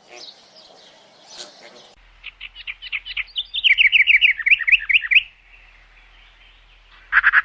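Songbird singing: a loud run of quick chirped notes that speeds up into a fast trill lasting about three seconds, followed near the end by another short loud burst of song. Fainter animal calls come before it in the first two seconds.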